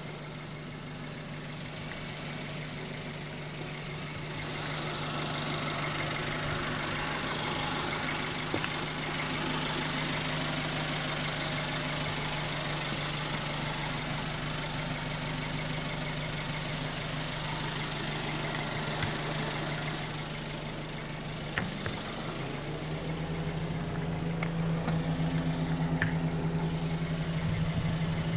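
Toyota TownAce's 1.5-litre petrol engine idling steadily. The idle note steps up slightly about three-quarters of the way through.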